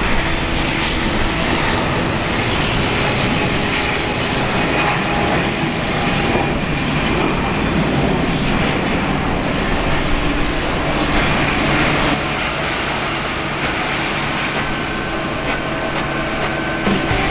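Jet airliner engines running with a loud, steady rush of noise and a few faint steady tones.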